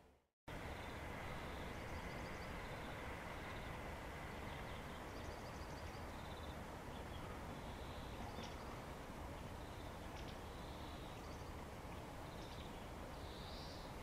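Garden ambience: small birds chirping faintly and briefly now and then over a steady low background hum. The sound cuts out for a moment at the very start.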